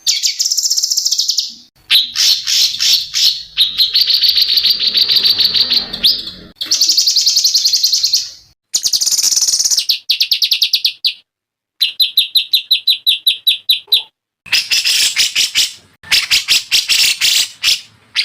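Songbirds' song edited together as a masteran song-tutor recording for cage birds: a string of short clips of rapid, high, repeated chirps and trills, each cutting in and out abruptly, with a couple of brief silent gaps.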